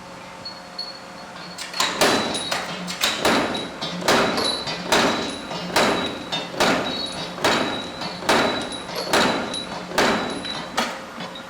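Repeated hammer blows on steel, starting about two seconds in and continuing at roughly one to two strikes a second, each with a short ringing note, over a low steady machine hum.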